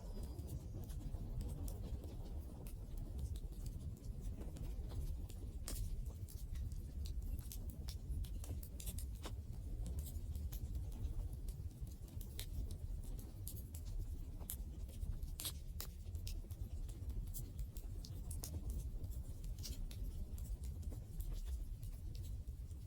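Wood campfire burning: irregular sharp crackles and pops of the burning wood over a steady low rumble of the flames.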